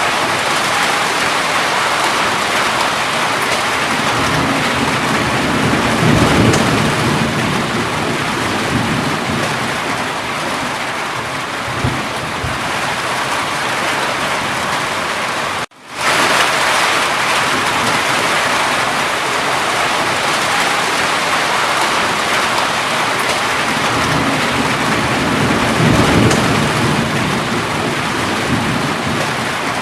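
Steady heavy rain falling, with low rolls of thunder about six seconds in and again near the end. About halfway through, the sound drops out for a split second and comes straight back.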